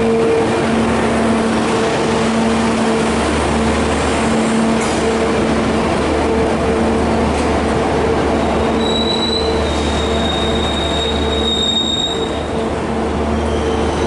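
Dhoho passenger train running along the track: a steady rumble with a droning hum. A high wheel squeal comes in from about nine to twelve seconds in.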